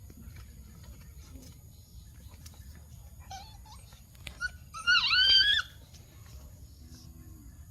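A dog's high-pitched yelp: a faint short whine about three seconds in, then a louder yelp that bends in pitch and lasts well over half a second near five seconds in, as the dogs play.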